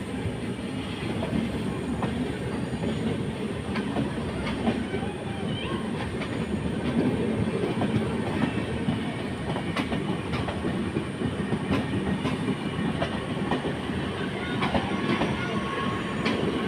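Passenger train running on the track, its wheels clacking over rail joints in a steady rumble with frequent short clicks.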